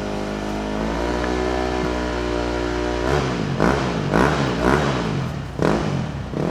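Dirt bike engine running at a steady speed, then revved up and down repeatedly from about halfway through.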